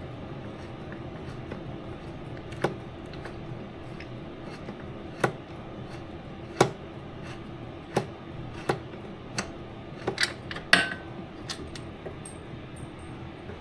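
Irregular sharp metal clinks and taps of hand tools against the brake hose fittings as the old rear flexible brake hose is worked loose, about nine in all with a quick cluster near the end, the loudest ringing briefly. A steady low hum runs underneath.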